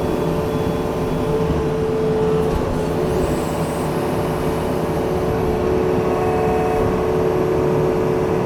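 Yanmar diesel digging machine running at a steady, high working speed, a constant engine drone with a strong steady tone.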